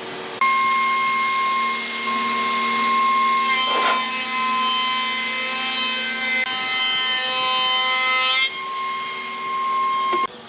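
Electric power tool cutting into hardwood, running with a steady high whine. In the middle stretch the sound turns rougher and fuller, as if the tool is under heavier load, before it settles back and cuts off abruptly near the end.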